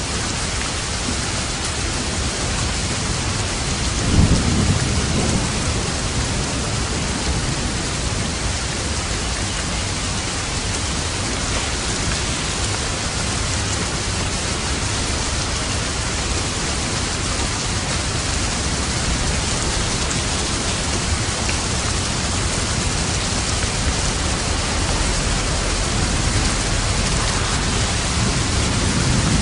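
Steady rain falling, with a low rumble of thunder about four seconds in and another near the end.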